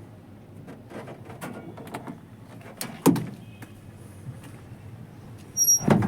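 Scattered knocks and clunks, with a sharp knock about three seconds in and a louder clatter near the end that carries a short high beep.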